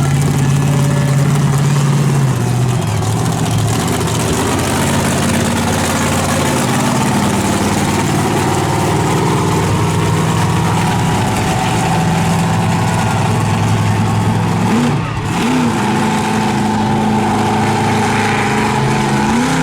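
Monster truck's big-block engine running at a steady pitch, dropping a little about two seconds in, with quick throttle blips a few seconds before the end and again at the very end.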